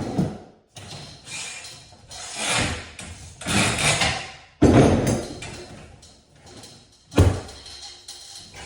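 A run of knocks, thuds and scraping noises, each lasting under a second, with a sudden loud knock about four and a half seconds in and a sharp thud about seven seconds in.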